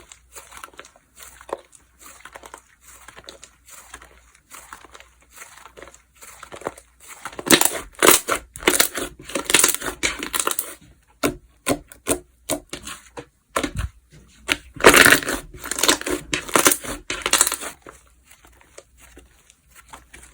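Hands squishing, pressing and stretching slime, making quick runs of small clicks and pops. The handling is soft for the first third, grows loud for a few seconds, eases off, then grows loud again for a few seconds before going soft near the end.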